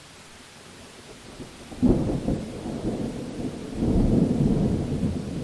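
Thunder in a rainstorm: a faint steady hiss of rain, then about two seconds in thunder breaks in suddenly and rumbles on low and loud, swelling again about four seconds in.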